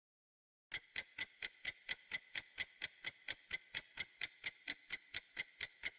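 Clock-ticking sound effect of a quiz countdown timer, about four crisp, even ticks a second, starting about a second in.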